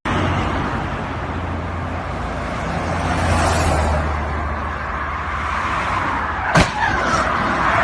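Car driving, heard from a dashcam: steady road noise and a low engine hum. A single sharp bang comes about six and a half seconds in, followed by a smaller knock.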